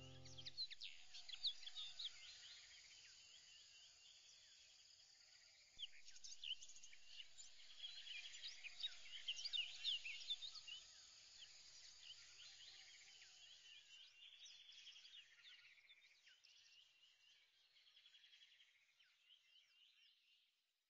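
Faint chorus of small birds chirping, many short overlapping calls that thin out and fade away towards the end. A held music chord cuts off about half a second in.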